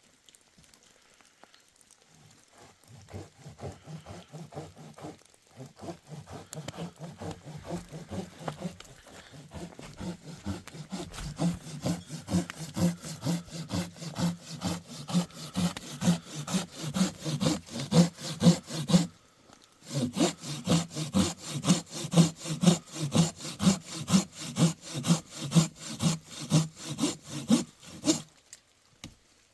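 Hand saw cutting through wood in steady back-and-forth strokes that grow louder and faster, with a short pause about two-thirds of the way through.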